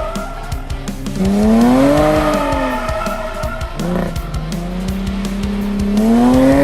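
Jaguar F-Type's supercharged 3.0-litre V6 revving hard under acceleration: the engine note climbs and falls back, drops sharply with a gear change about four seconds in, then climbs steadily again before the throttle is lifted near the end. A run of sharp clicks sounds over it throughout.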